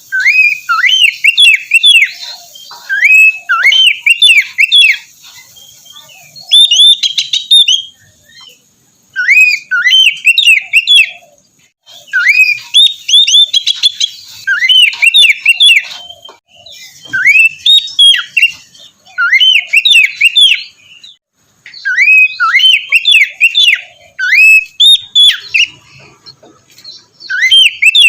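Oriental magpie-robin (kacer) singing loudly: phrases of sharp whistled notes that swoop up and down, in bursts of a second or two separated by short pauses.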